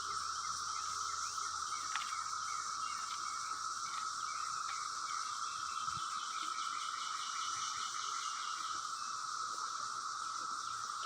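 Massed chorus of 17-year periodical cicadas: a steady, unbroken drone, with a faint click or two.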